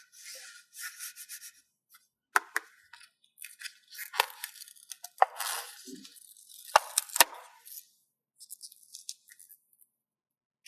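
Paper stickers being handled, peeled and pressed down: irregular bursts of crinkly rustling with several sharp crackles, stopping about a second before the end.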